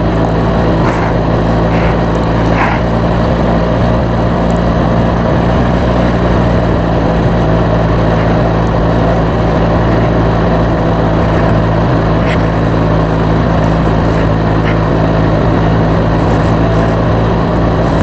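Motorcycle engine running steadily in first gear at low speed, its pitch held even, under a haze of wind and road noise.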